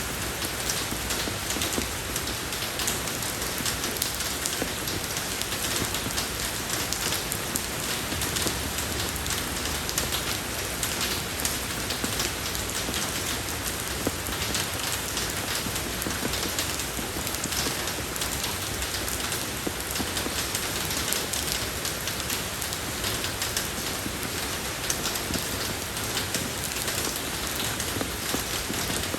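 Steady rain falling on a road surface, an even hiss full of fine drop patter.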